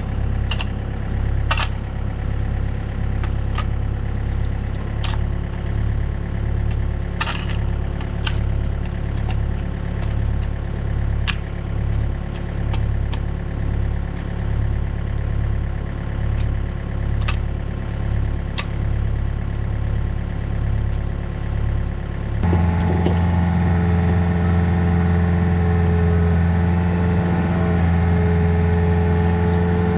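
Takeuchi TB153FR mini excavator's diesel engine running with a regular pulsing beat, with scattered clanks of metal. About two-thirds of the way through the engine speeds up and a steady higher whine joins in.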